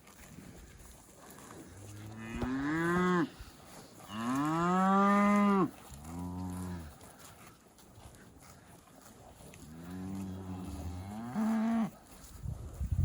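Cattle mooing: four drawn-out calls, each rising in pitch as it begins, the longest and loudest about four seconds in.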